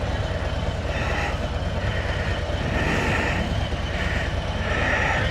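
Motorcycle engine running steadily on the road, with a higher rushing sound that swells and fades every second or two.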